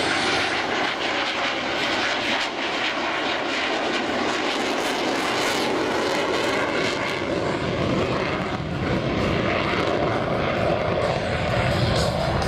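A fixed-wing airplane's engine running steadily.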